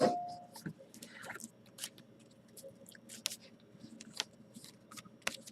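Trading cards and pack wrappers being handled: a sharp knock right at the start, then scattered small clicks, rustles and scrapes as cards are shuffled and slid.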